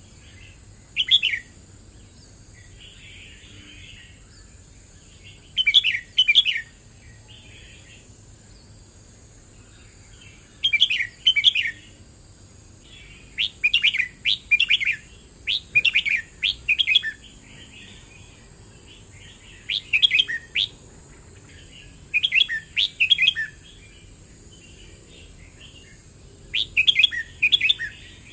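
Red-whiskered bulbul singing short, bright phrases of quick chirpy notes about every four to five seconds, with a faster run of four phrases near the middle and softer twitters between phrases.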